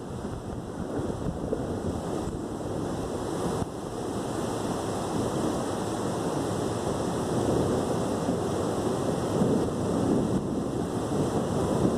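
Steady rushing storm noise of a light thunderstorm, rain and wind with no distinct claps, growing a little louder toward the end.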